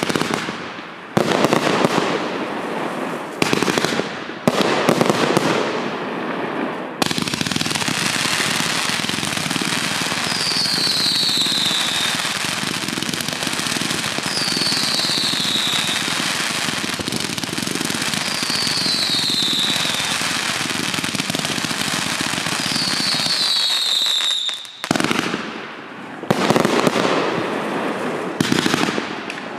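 Eruption 500-shot fireworks finale cake firing. Separate launches and bursts come first, then from about seven seconds a dense, unbroken wall of crackling that runs for some seventeen seconds, with a short falling whistle about every four seconds. Separate bursts return near the end.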